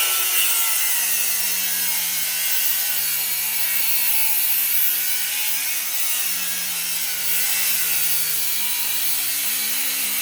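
Electric power saw cutting into a brass water-heater valve fitting. The motor runs steadily under load with a loud cutting hiss, and its pitch wavers as the blade bites.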